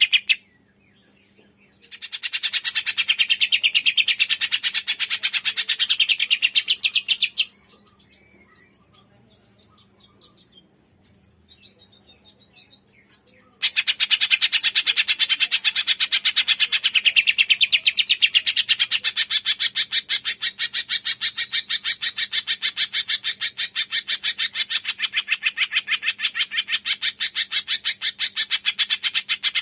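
Cucak ijo (green leafbird) singing its 'tembakan', a rapid-fire string of sharp, quickly repeated notes. It comes in two long runs: one about two seconds in that lasts about five seconds, then, after a pause with a few faint chirps, another starting about halfway through that carries on without a break. A faint steady hum lies underneath.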